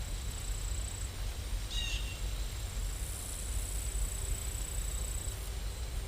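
Steady rain-sound ambience: an even hiss and rumble, with a thin continuous high tone and a short chirp about two seconds in.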